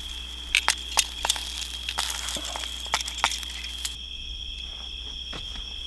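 Quesadillas cooking in a cast iron skillet: faint sizzling with scattered clicks and knocks of a utensil against the pan, over steady high chirring of night insects. The sizzling cuts off suddenly about four seconds in, leaving the insects.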